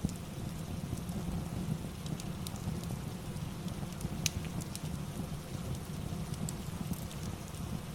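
Steady rain ambience with a low rumble, and a crackling fire that gives a few scattered sharp pops, the loudest about four seconds in.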